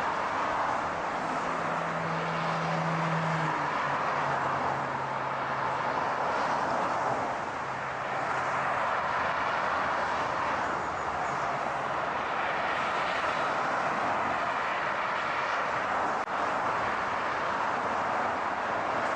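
Steady car driving noise, a constant rush of road and wind noise, with a low engine hum that drops a step in pitch about four seconds in and fades out about twelve seconds in.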